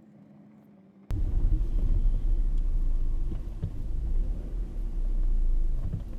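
A faint steady hum, then about a second in a sudden jump to the loud low rumble of a car driving slowly, with small knocks and rattles.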